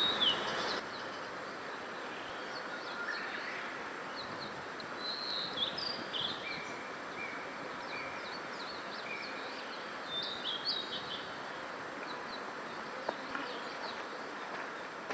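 Several small birds chirping and calling, with a run of short, repeated whistled notes in the middle, over a steady outdoor hiss.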